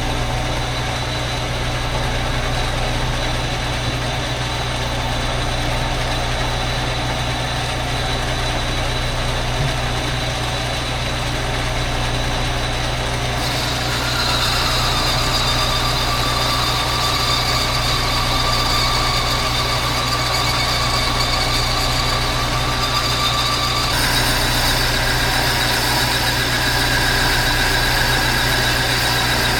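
Metal lathe running while a boring tool cuts inside a motorcycle cylinder bore: a steady machine hum with cutting noise. About halfway through, a thin high whine and a brighter hiss come in, and the sound grows brighter again near the end.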